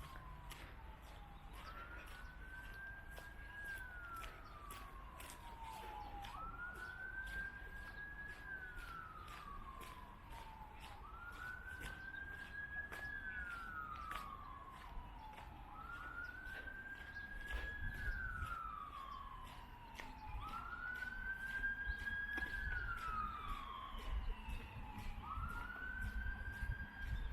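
Emergency vehicle siren wailing in a slow cycle: a quick rise, a short hold, then a long fall, about every five seconds. A second, fainter and higher siren joins about halfway through.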